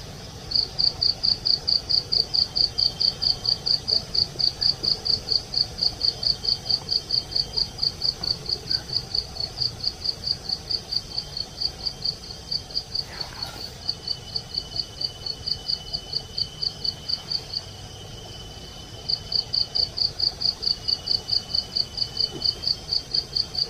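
An insect, cricket-like, chirping in a steady high-pitched pulse of about four chirps a second, breaking off briefly near the end before starting again, with fainter insect trills beneath.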